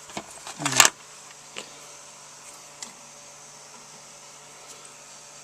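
A quick run of metal clicks and knocks in the first second as the small steel cutter is handled and taken out. A few faint ticks and a steady low hum follow.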